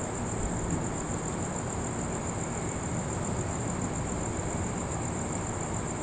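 Crickets trilling steadily on one high note over a constant low background noise.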